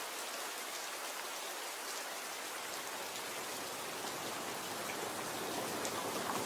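Steady rain falling, with fine patter of individual drops; it swells slightly near the end.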